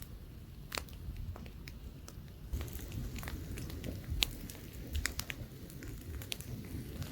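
Wood campfire crackling, with irregular sharp pops over a low wind rumble; the crackling gets busier about two and a half seconds in.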